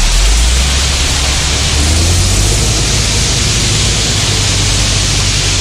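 An engine running under a loud, steady rushing noise; its low hum rises in pitch over the first two seconds and then holds steady.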